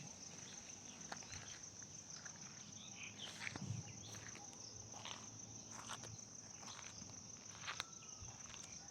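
A steady, high-pitched insect drone, faint, with scattered light clicks and a few faint bird chirps.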